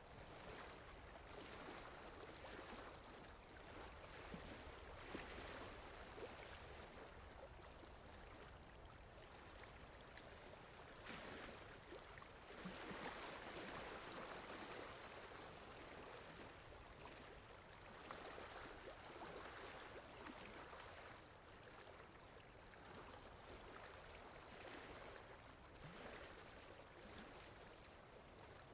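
Quiet, steady rainfall, an even hiss that swells and eases every few seconds.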